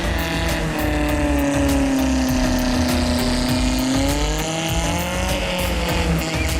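An off-road 4x4's engine running hard under load, with rough low rumble; its pitch sags between about two and four seconds in, then climbs again.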